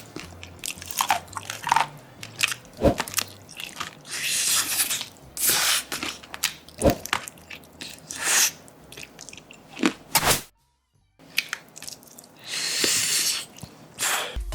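Close-miked biting and chewing of crispy deep-fried chicken: loud crackling crunches in repeated bursts, with sharp clicks at each bite. About two-thirds through, the sound cuts to dead silence for a moment.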